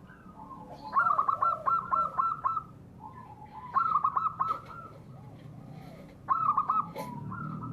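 Dove cooing in three quick bouts of rapid, repeated notes that each drop slightly in pitch.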